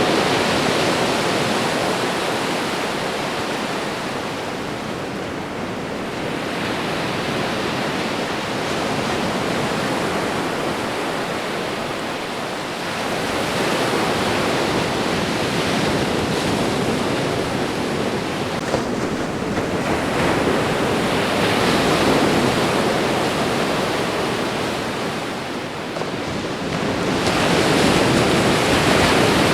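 Ocean waves breaking and washing up a shore, a continuous rushing that swells and ebbs in slow surges every several seconds.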